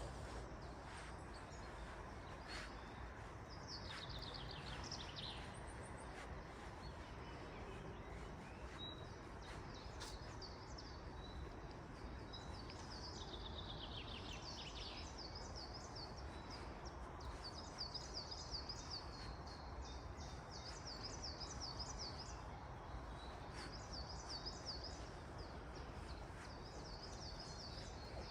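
Forest ambience: a soft steady background hiss with songbirds singing over it, a couple of quick descending trills, then a long run of rapid high repeated chirps starting about two thirds of the way through.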